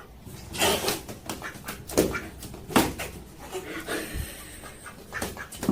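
A pet animal making several short, separate sounds.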